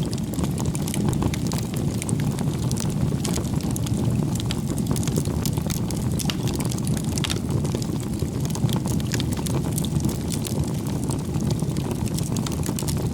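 Bonfire of firewood burning: a steady low rush of flame with frequent sharp crackles and pops from the wood.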